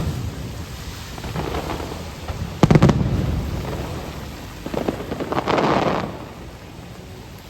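Fireworks shells bursting overhead: a loud deep boom about two and a half seconds in that rolls away, lighter thuds around it, and a crackling burst near six seconds. Rain hisses steadily underneath.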